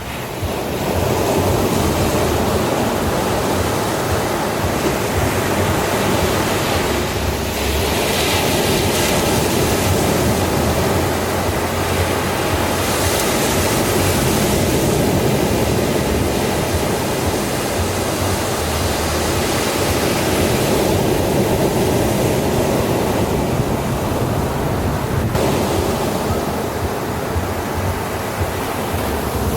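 Ocean surf: a continuous wash of breaking waves, swelling and easing slightly every few seconds.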